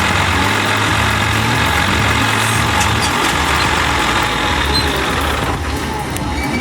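Heavy vehicle's engine running steadily, with an even hiss over it that stops about five and a half seconds in.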